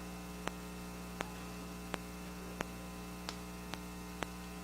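Steady electrical mains hum with sharp clicks about one and a half times a second, the sound of a fault in the recording.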